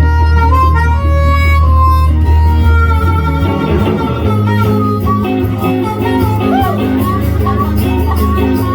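A band playing an instrumental break with no singing: a sustained lead melody over guitar and a steady bass line, settling into an even repeating rhythm about halfway through.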